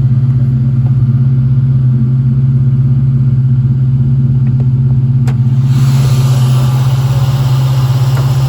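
A 1996 Ford Mustang GT's 4.6-litre two-valve V8, breathing through a catback exhaust, idling steadily while it warms up after a winter cold start. A broad hiss joins about six seconds in.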